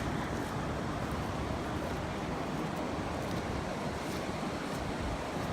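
Steady rush of fast-flowing river water, an even unbroken noise.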